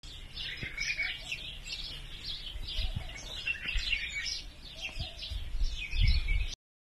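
Several small birds chirping and calling in quick, repeated short notes over a low rumble that swells near the end; the sound cuts off suddenly.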